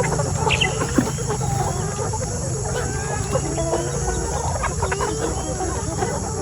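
A flock of Brown Nick and Black Nick laying hens clucking, with many short calls overlapping and a few sharp clicks among them.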